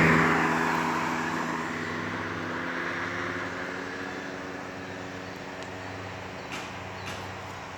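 A motor vehicle's engine, loud at first and fading steadily as it moves away, with a few faint clicks near the end.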